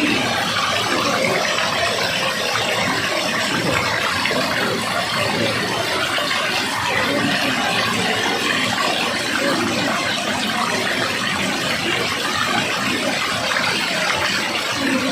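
Steady rush of running water, an even hiss that holds at the same level throughout.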